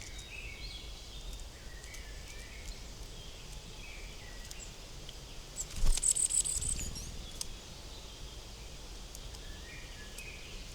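Forest birds calling with short, scattered chirps over a low, steady background. About six seconds in there is a louder run of sharp taps together with a high, rapid chattering call lasting about a second.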